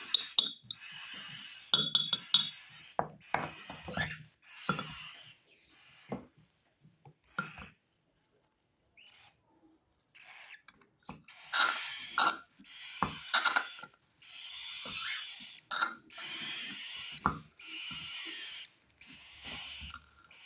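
Cockatiel chicks' raspy food-begging calls, coming in repeated bursts of up to about a second, with a quiet lull partway through and several sharp clicks among them.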